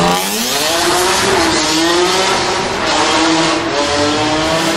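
BMW sports car accelerating hard: the engine's revs climb steeply, hold high, then climb again near the end as it pulls away under load.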